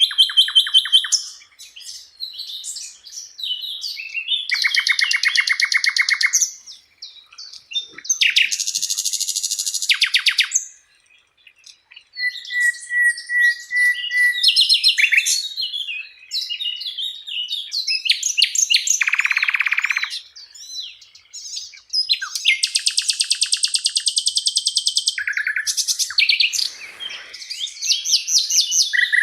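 Sikatan londo (a flycatcher kept as a songbird) singing a varied song of fast rattling trills, buzzy phrases and a held whistled note, with short pauses between phrases.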